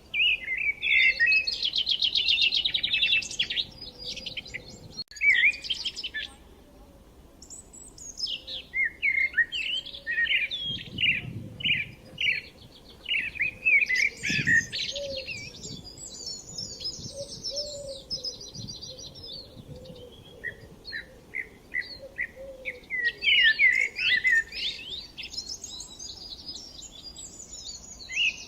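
Songbirds chirping and trilling in quick high notes, with a short lull about a quarter of the way through.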